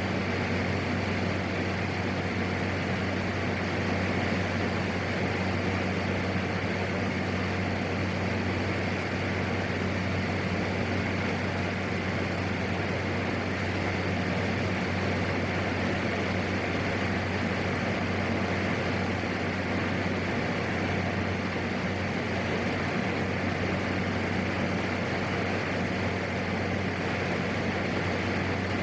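Steady drone of a PAC 750XL's single turboprop engine and propeller in flight: a constant low hum under a broad rushing noise, unchanging throughout.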